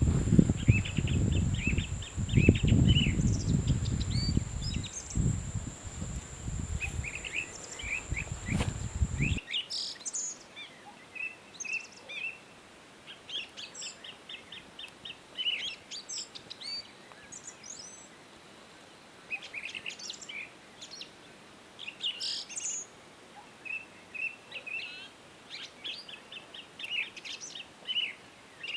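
Small birds chirping and singing in quick runs of short, repeated high notes. For the first nine seconds or so a low rumble and a steady high whine sit under the birds, then both cut off suddenly, leaving the birdsong alone.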